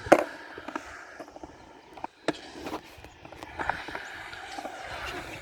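Skateboard knocking and clacking on concrete: a sharp hit just after the start, another a little over two seconds in, and a louder one near the end, with lighter knocks between them over a hiss that grows toward the end.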